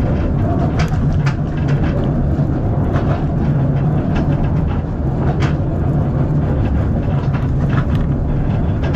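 Narrow-gauge railway carriage rolling along the track, heard from inside: a steady low rumble with scattered clicks and knocks from the wheels and coach.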